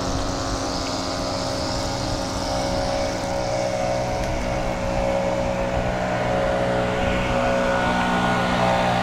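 A motor vehicle's engine running steadily with an even hum, getting a little louder toward the end.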